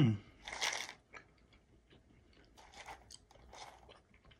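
A person chewing dry-roasted mixed nuts with the mouth close to the microphone: one loud crunch about half a second in, then softer, scattered chewing.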